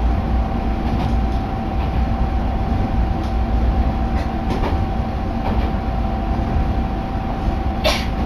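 Diesel railcar heard from inside the cabin while running: steady low rumble with a steady whine and a few faint clicks. A short sharp noise comes near the end.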